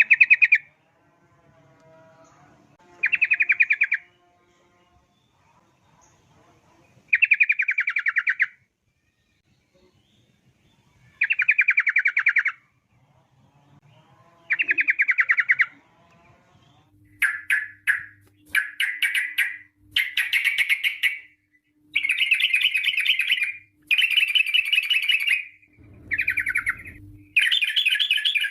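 Yellow-vented bulbul (trucuk) singing its fast chattering 'ropel' phrases, each a second or so of rapid bubbling notes. The phrases are spaced a few seconds apart at first, then from about two-thirds of the way in they follow one after another almost without a pause.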